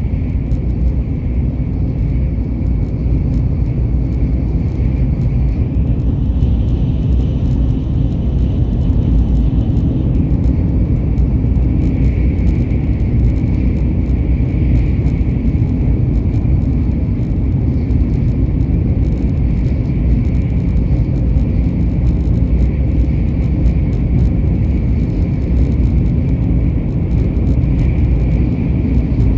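A vehicle in motion: a loud, steady low rumble with a faint steady whine above it, and a second, higher whine for a few seconds about a third of the way in.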